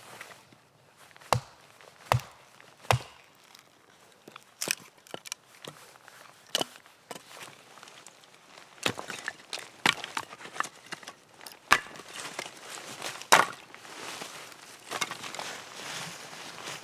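Axe chopping wood: three sharp strikes a little under a second apart, then lighter scattered knocks and cracks, with a crackling rustle of wood and forest litter near the end.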